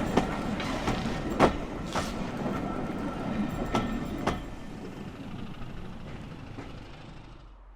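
Train rolling past on the line, wheels clicking irregularly over rail joints; the rumble then fades away as it recedes.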